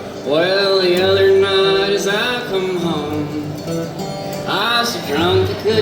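Live folk band performing a traditional ballad: a voice singing the opening lines over plucked acoustic guitar.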